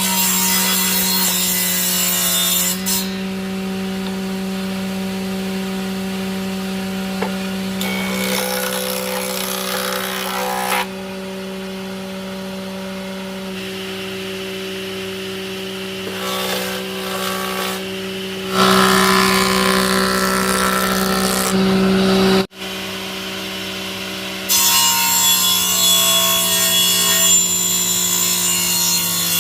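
An electric power tool with its motor running steadily while it cuts or saws wood. The cutting noise over the motor changes abruptly several times.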